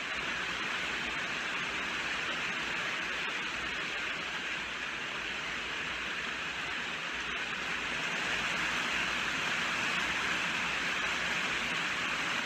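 Steady rainfall, an even hiss of many drops with no distinct splashes, growing slightly louder about eight seconds in.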